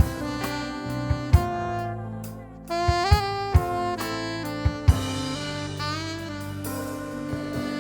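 A worship band plays an instrumental break in a praise song. A lead melody with sliding notes runs over held chords and bass, with scattered drum hits.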